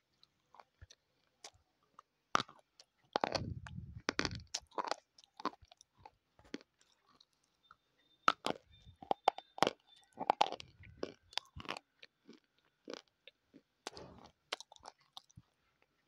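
Close-miked biting and chewing of a hard, crumbly bar: irregular sharp crunches and crackles, with wetter chewing in between.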